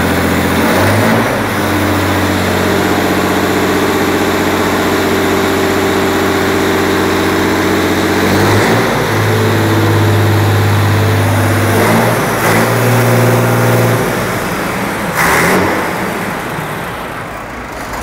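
Scania 112 truck's six-cylinder diesel engine running on its first start after its injection pump and injectors were rebuilt. The engine is held at one speed for a few seconds at a time, then stepped up or down, and drops back to a lower speed near the end, with a brief hiss about fifteen seconds in.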